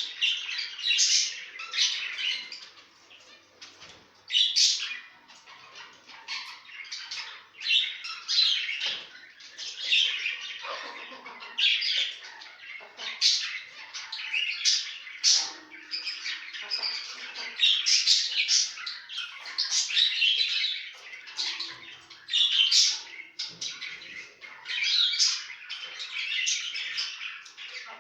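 Zebra finches calling: a continuous run of short, high, nasal chirps and squawks, many overlapping.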